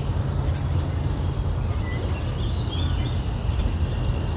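Steady low wind rumble on the microphone, with small birds chirping and whistling faintly in the background.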